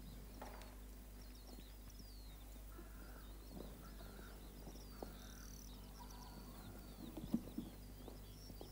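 Faint birdsong: many small birds chirping and twittering over a steady low hum, with a few short knocks near the end.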